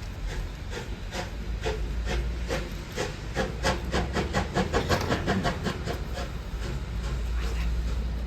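A train passing, its wheels clicking over track joints in a run of quick clacks that come thickest and loudest a few seconds in, over a low rumble.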